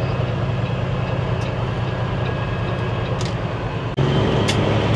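Semi truck's diesel engine running steadily, heard from inside the cab as the truck moves at low speed, with a couple of short sharp clicks; about four seconds in the sound abruptly gets louder.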